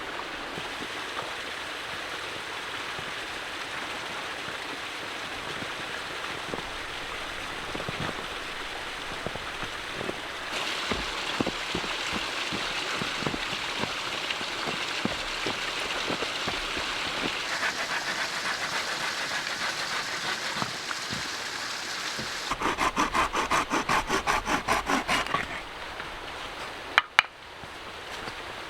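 Creek water running steadily, a little louder from about a third of the way in. Near the end comes a few seconds of fast, even strokes, about five a second, then two sharp knocks.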